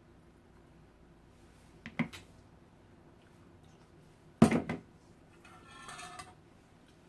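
Eating utensils knocking against a plate: a light clink about two seconds in, a louder clatter about four and a half seconds in, then a short scrape across the plate.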